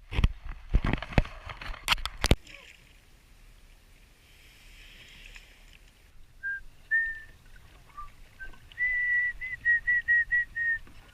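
Sharp knocks and rustling at the start, then high whistled notes: a few scattered short notes, followed near the end by a quick run of about seven repeated notes at one pitch.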